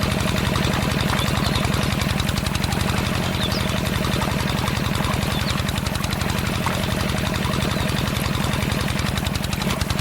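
A small engine running steadily with a fast, even knocking beat.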